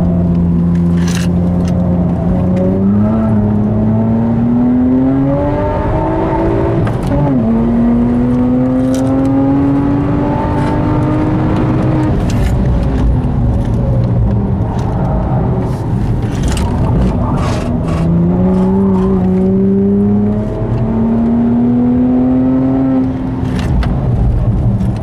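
BMW 1M's twin-turbo straight-six, tuned by Devotec to 477 hp, heard from inside the cabin on hard track driving. The engine note climbs through the revs, drops sharply at a gear change about seven seconds in and climbs again, eases off around twelve seconds, then pulls twice more in the last third. Occasional sharp clicks are heard throughout.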